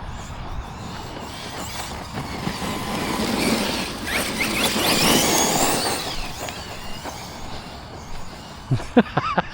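Arrma RC monster truck driving at speed: a brushless motor whine that glides up and down in pitch over tyre and gravel noise, swelling to its loudest about halfway through and then fading as the truck moves away.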